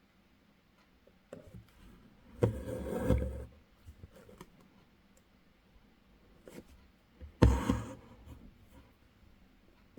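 Embroidery thread pulled through fabric stretched in a hoop: two rasping pulls, the first about a second long, the second shorter about halfway through, with faint small taps of the needle and hands between.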